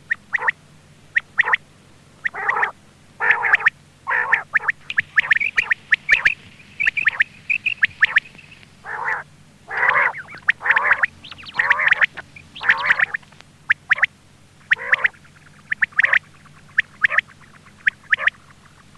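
Quail calls played as a hunting lure: many short, harsh calls in quick irregular bursts, with a higher, steadier trill about six to eight seconds in.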